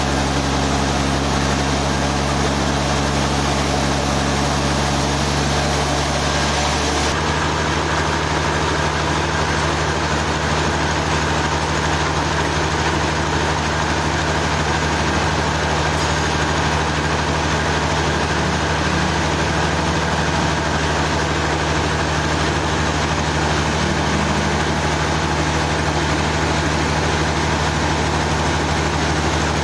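Sawmill engine running steadily at a constant pitch, its tone shifting slightly about seven seconds in.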